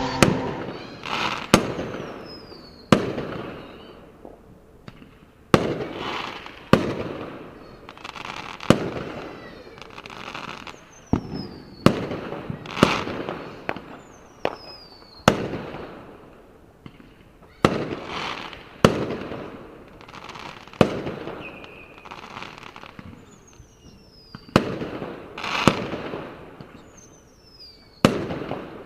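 Fireworks going off: sharp bangs every second or two, each trailing off in a crackling decay, with several short falling whistles in between.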